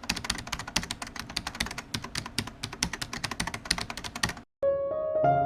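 Rapid clicking of computer keyboard keys being typed, stopping abruptly about four and a half seconds in. A soft piano melody starts just after.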